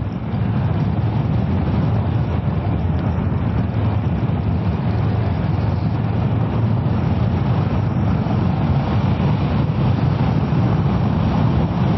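Kawasaki ER-6f parallel-twin engine pulling steadily at road speed under a rush of wind and road noise. It swells up in the first half second, then holds steady.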